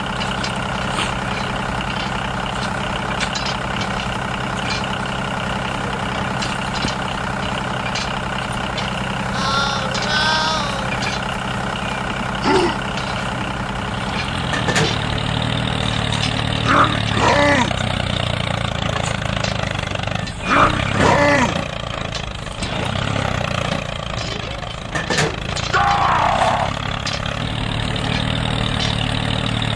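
Tractor engine running steadily, its low hum growing fuller about halfway through, with a few short high squeaks over it.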